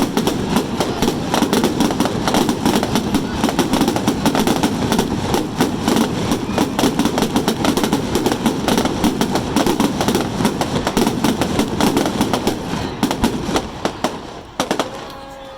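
Fireworks going off in a dense, continuous barrage of rapid crackling bursts. It thins out about a second before the end, with a couple of last sharp cracks.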